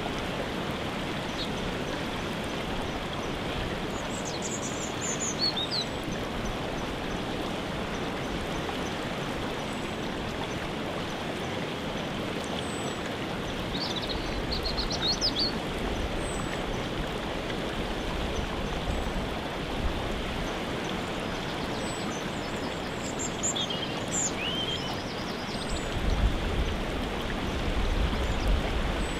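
Waterfall water rushing steadily, with songbirds giving short chirping calls three times over it and a low rumble near the end.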